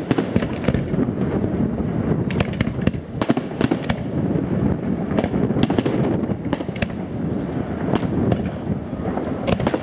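Aerial firework shells bursting in quick succession: a continuous low rumble of booms with many sharp cracks scattered through it.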